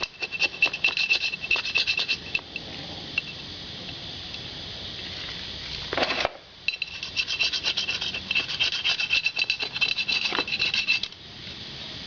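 A hand scraper rasping old gasket material, softened with paint stripper, off a Harley Evolution engine's gasket face. It comes in two spells of quick scraping strokes with a steadier hiss between them.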